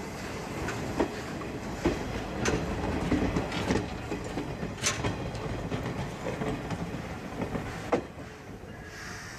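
C11 steam train rolling slowly on the rails, with a steady rumble and sharp wheel clacks over the rail joints at uneven intervals, about once a second.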